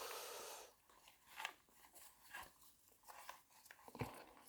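Faint handling noise of motorcycle wiring being worked by hand: a soft rustle, then a few scattered small clicks.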